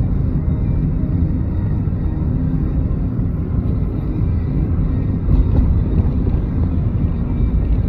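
Steady low rumble of a car in motion, road and engine noise without a break.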